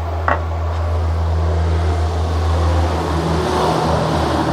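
Steady low mechanical hum of a running machine, starting abruptly, with a brief click about a third of a second in.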